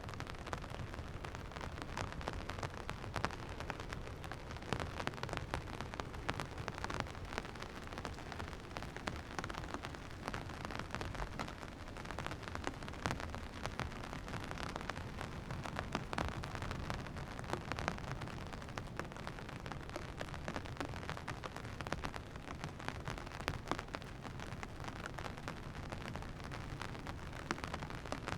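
Steady rain falling, with many separate drop hits ticking through it.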